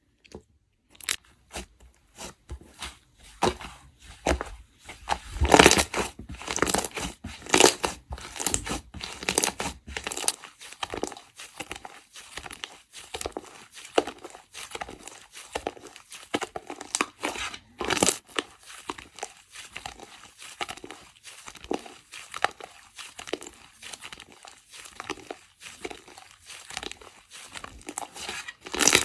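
Close-up crunching, crackling and tearing of some crisp material: irregular sharp crackles, one after another, with louder clusters about five seconds in and again near eighteen seconds.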